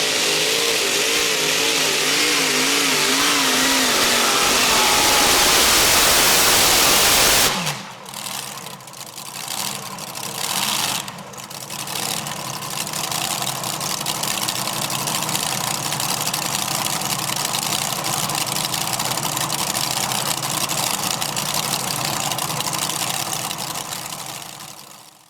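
Modified pulling tractor's engines running at full power under load on the sled, the pitch wavering as the revs rise and fall. About seven and a half seconds in the engines shut off abruptly and wind down with a falling tone. After that there is a lower steady din of engines idling.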